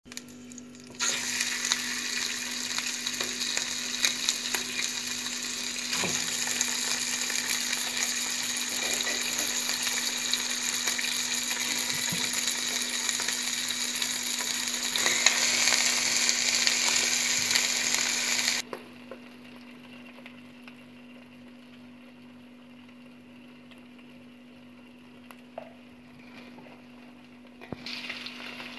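Chicken pieces sizzling in hot oil in a nonstick wok. The sizzle is loud and steady, drops abruptly to a much softer sizzle about two-thirds of the way through, then picks up again near the end.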